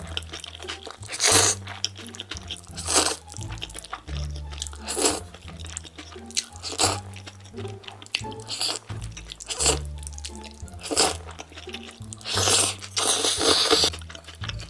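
Close-miked mukbang eating sounds, crunchy bites and chewing coming every second or two with a longer noisy stretch near the end, over background music with a steady bass line.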